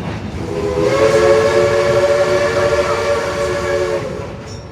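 Steam locomotive No. 16's whistle blowing one long blast, several notes sounding together as a chord, over the rumble and hiss of the moving train.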